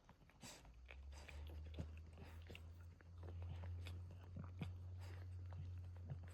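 Boston terrier mother licking and cleaning her newborn puppies: faint wet licking and smacking clicks. A low steady hum sets in about a second in.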